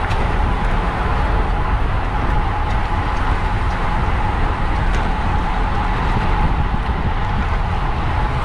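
Steady wind rush and tyre-on-road noise on a racing bicycle's camera microphone while riding in a race.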